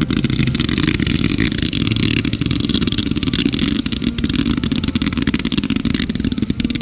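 Fireworks barrage: a dense run of rapid crackling reports that starts abruptly and fades out just after the end.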